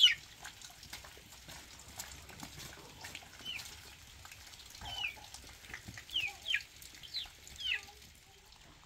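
A bird peeping: short, high calls that slide down in pitch. They come close together at the start, then in a loose run of about six from the middle to near the end. Faint clicks and knocks sound in between.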